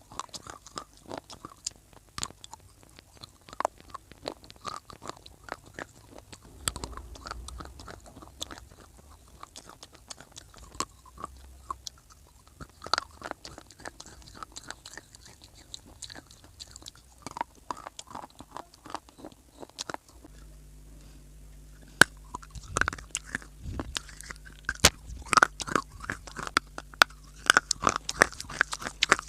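Close-miked biting and chewing of crunchy dry clay (mitti): a continuous run of sharp crunches and cracks, thicker and louder in the last third. A low steady hum comes in about two-thirds of the way through.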